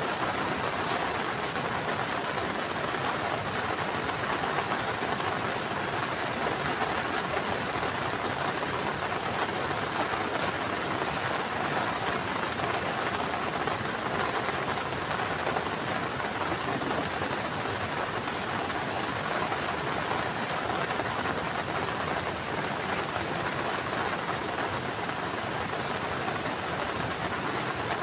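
Heavy rain falling steadily on surfaces, a constant hiss with no breaks.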